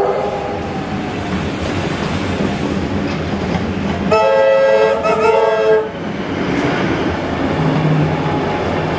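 Steady rumble and wheel clatter of a train running on the rails, heard from inside a wooden heritage carriage. About four seconds in, a train horn sounds once as a multi-note chord for nearly two seconds, then stops.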